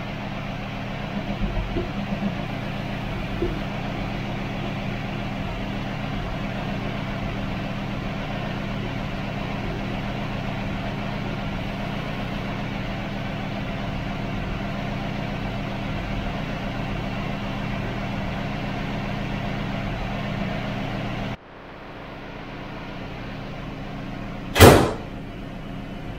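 A 350 small-block Chevy V8 idling steadily on a newly fitted Edelbrock 650 cfm AVS2 carburetor, still at its out-of-the-box settings. About 21 seconds in, the idle drops to a quieter level, and a few seconds later the hood slams shut with one loud bang.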